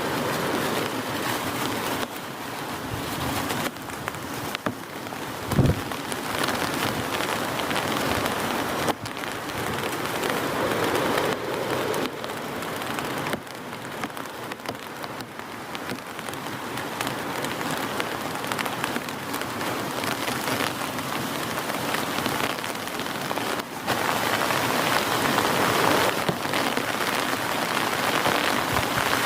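Heavy rain pattering steadily on a surface, with many individual drops ticking through it. A single brief low thump about six seconds in.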